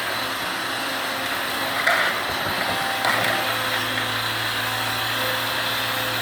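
Excavator engine and hydraulics running steadily while working a demolition and sorting grab, with two knocks about two and three seconds in as the grab handles material.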